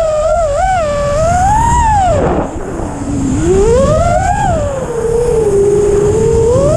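Hyperlite 2408.5 brushless motors on a 6-inch FPV racing quadcopter whining with the throttle, the pitch swooping up and down. It rises, drops low about two and a half seconds in, climbs again, holds steady, then climbs once more near the end, over a steady rushing noise.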